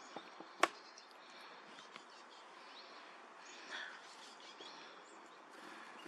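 Faint outdoor background noise with a few short, faint bird chirps, and one sharp click about half a second in.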